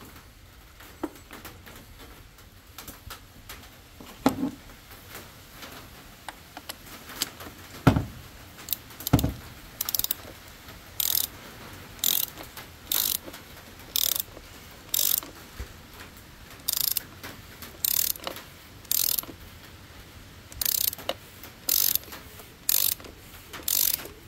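Hand ratchet tightening a socket on the oil filter housing cap, clicking in short strokes about once a second from about ten seconds in, after a few knocks as the socket is fitted.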